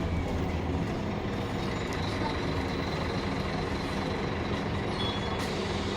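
Scania K310UB city bus's engine running steadily under way, with a faint high whine setting in about a second and a half in.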